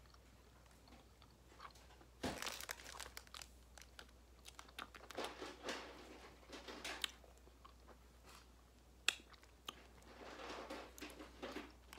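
Close-up chewing of a Peeps marshmallow candy, in several bouts of crunchy chewing that start about two seconds in, with a single sharp click near the end.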